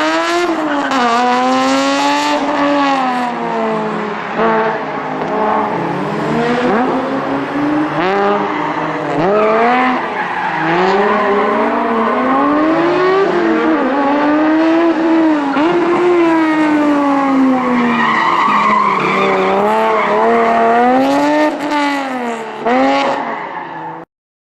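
First-generation Honda NSX V6 engine revving hard, its pitch climbing and dropping again and again through gear changes and lifts off the throttle. The sound cuts off abruptly near the end.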